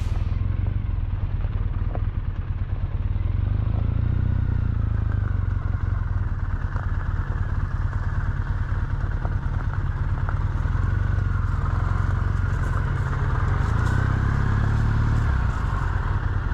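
Triumph motorcycle running steadily on the move, a deep even engine rumble whose note drifts up and down slightly.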